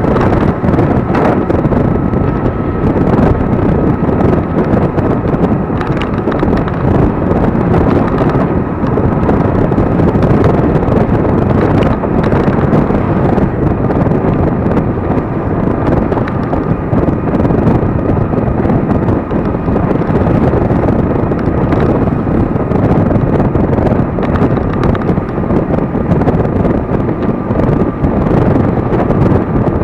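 Wind rushing over the microphone of a moving electric scooter, a loud steady roar without breaks, with a faint thin whine running through it.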